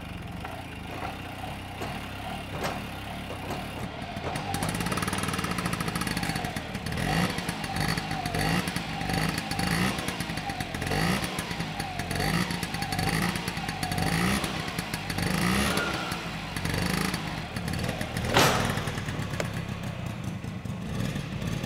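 Honda Camino PA50's 49cc two-stroke engine running, with a run of short throttle blips in the middle that rise and fall in pitch. A sharp click is heard near the end.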